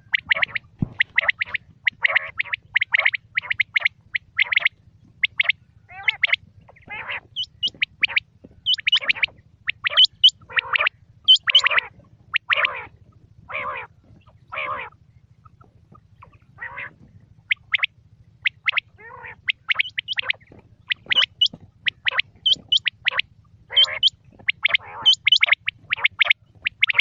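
Quail calling in rapid runs of short, sharp notes with brief pauses, one short lull about halfway through, over a faint steady low hum.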